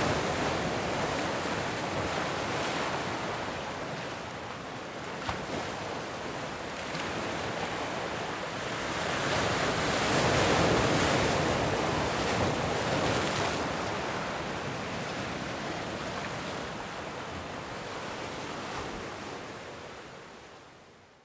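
Ocean surf: waves breaking and washing in as a steady rush, swelling louder about halfway through, then fading out at the end.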